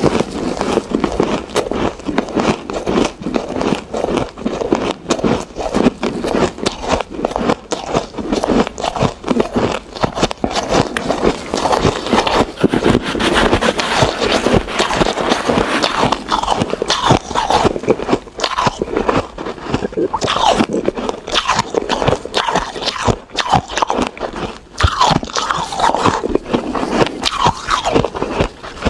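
Ice being bitten and chewed close to the microphone: dense, continuous crunching and cracking of hard ice.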